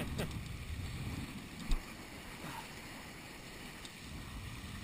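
Wind buffeting the microphone and water noise aboard a Nacra 5.2 beach catamaran under sail, with a single low thump a little under two seconds in.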